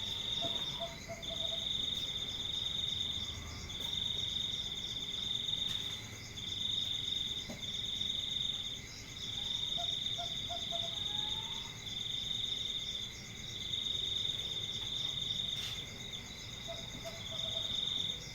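Insects trilling in long steady phrases of one to two seconds with short breaks, typical of a night chorus of crickets, with a few faint short chirp series lower in pitch heard three times.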